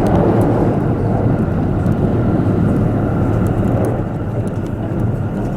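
KiHa 85 diesel railcar running at speed, heard from inside the passenger cabin: a steady loud rumble of engine and wheels on rail, with a few faint clicks.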